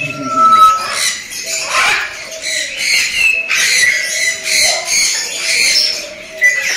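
A crowd of caged parrots calling together: a din of high whistles, pitch glides and harsh squawks, growing denser about halfway through.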